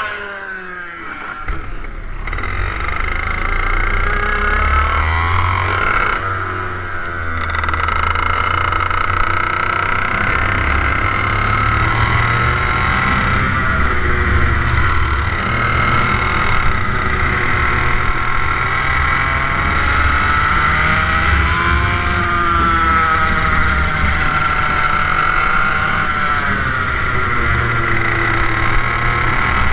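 TM K11B 100cc water-cooled two-stroke kart engine at high revs, climbing and dropping in pitch again and again as the kart accelerates and lifts through the corners of a lap. A low rumble runs underneath.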